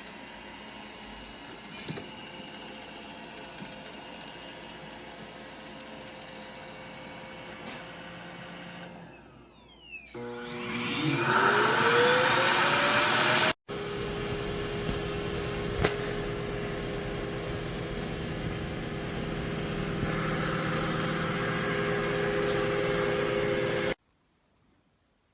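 iRobot Roomba Combo i5+ vacuum motor humming, then spinning up with rising whines to a loud run about ten seconds in. After a brief break it runs on with a steady hum until it stops shortly before the end.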